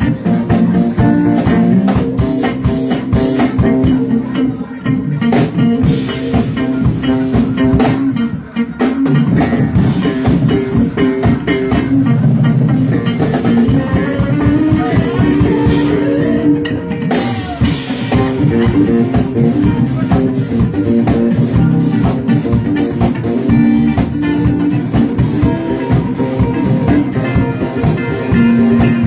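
Live rock band playing an instrumental passage: electric guitar, bass and drum kit.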